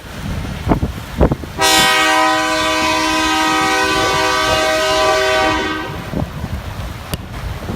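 Diesel freight locomotive's air horn sounding one long chord of several tones for about four seconds, starting about a second and a half in. Gusting wind buffets the microphone before and after it.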